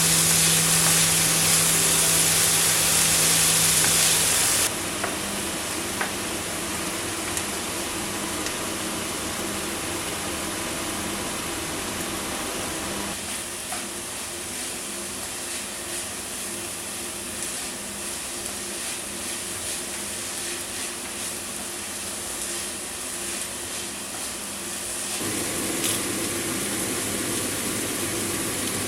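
Food sizzling as it fries in a pan, with stirring. It is loud for the first five seconds or so, with a steady hum underneath, then quieter, with a few light clicks of a utensil.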